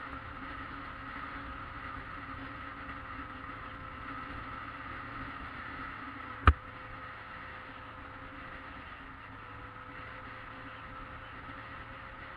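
Yamaha XJ600S Diversion's inline-four engine running at a steady pitch while riding, with one sharp click about halfway through.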